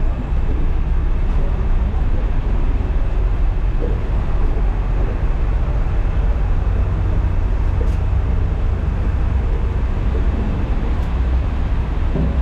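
Steady, loud low rumble of a ferry's engines running underway, with a hiss of noise over it.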